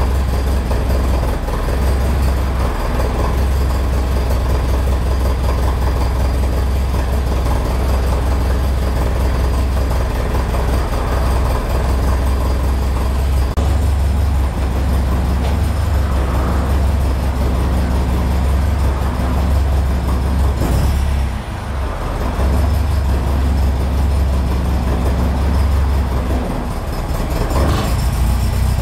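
Opel Kadett C GT/E's engine idling steadily through its exhaust, with a short dip in level a little past the middle.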